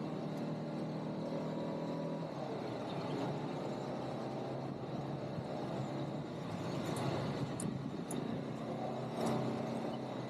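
ATV engine running, with an even pitch for the first couple of seconds, then a rougher sound that shifts in pitch, and a few sharp clicks towards the end.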